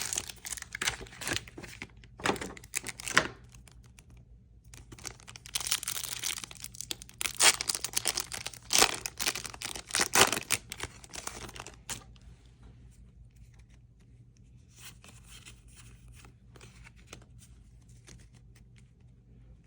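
Trading-card blister pack being torn open: irregular crinkling and tearing of plastic and foil packaging for about twelve seconds, then fainter rustling and small clicks.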